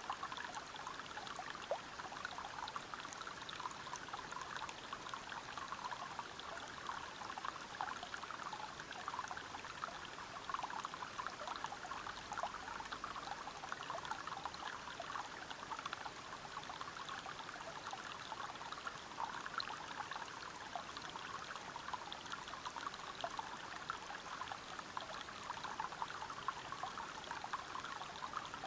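Stream water running and splashing over rocks, a steady rush without letting up.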